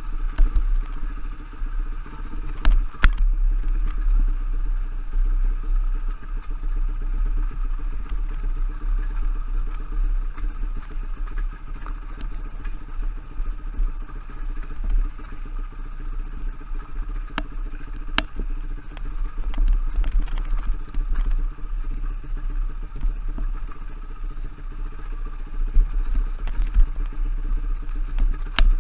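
Enduro trail motorcycle engine running steadily under way over rough ground, with a heavy low rumble and sharp knocks now and then.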